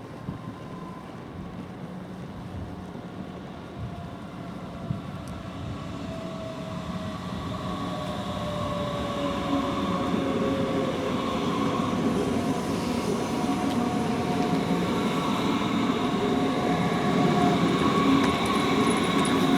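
A train approaching and growing steadily louder, its rumble overlaid with thin whining tones that slide slowly lower in pitch.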